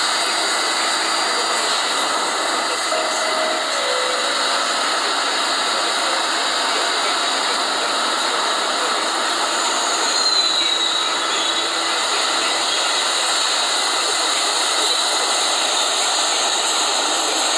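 New York City subway C train running through Grand St station: a steady, loud rail noise, with a brief high squeal about ten seconds in.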